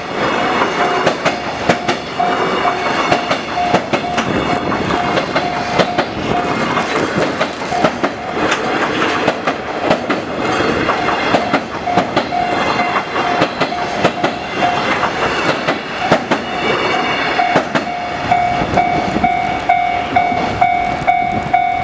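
Container freight wagons rolling past on a steel truss railway bridge, wheels clattering over the rail joints. A steady high ringing tone comes and goes over the rattle and is strongest near the end.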